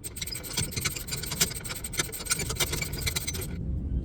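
Rapid metallic clicking from a wrench backing out an air dryer mounting bolt, stopping about three and a half seconds in.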